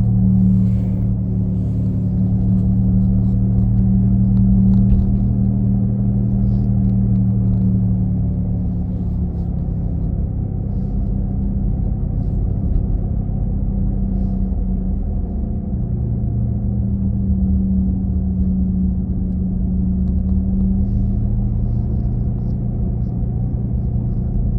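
An engine-like droning noise from the rear of a 2017 Nissan Leaf as it drives: two low humming tones over road rumble. The lower hum fades for a few seconds partway through and then comes back. The owner cannot tell what causes it.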